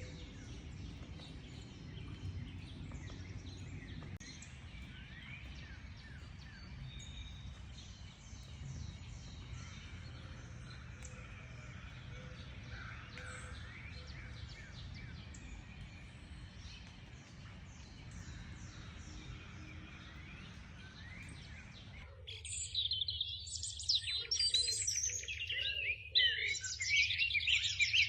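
Wild birds calling and singing over a low steady rumble. About 22 seconds in, the sound changes abruptly to louder, dense, overlapping bird song.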